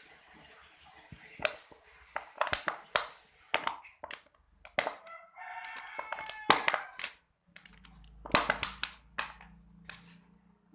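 Sharp clicks and crackles of a used plastic bottle being handled while a hole is made in its top. A rooster crows once in the background about halfway through.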